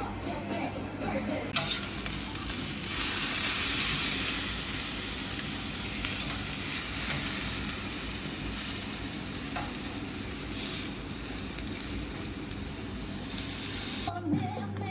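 Food sizzling as it cooks: a steady frying hiss that swells about three seconds in and eases near the end, with a single short click between.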